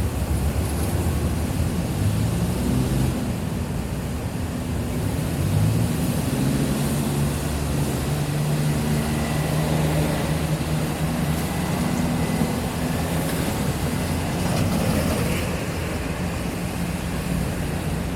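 City street traffic: a steady mix of vehicle engines and tyre noise, with low engine tones that shift in pitch as vehicles pull away and pass.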